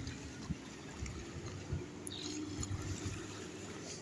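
Faint shoreline ambience: gentle water lapping, under a low, uneven rumble.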